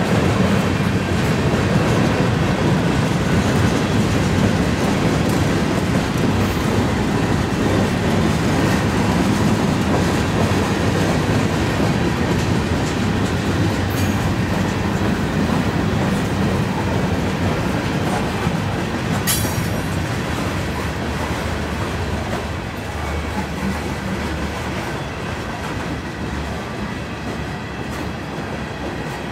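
Freight cars of a long CN freight train rolling past, a steady noise of steel wheels on the rails. There is one sharp click about two-thirds of the way through, and the sound eases off slightly toward the end.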